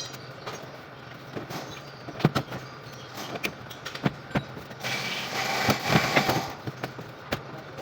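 Hand tools working on a truck's brake master cylinder: scattered sharp metallic clicks and knocks, with a longer harsh scraping rasp from about five to six and a half seconds in.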